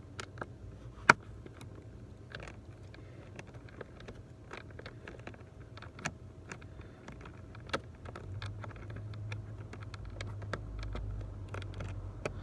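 Small irregular clicks and taps of a T15 Torx screwdriver working a screw out of a plastic trim panel, with one sharper click about a second in. A low steady hum comes up in the second half.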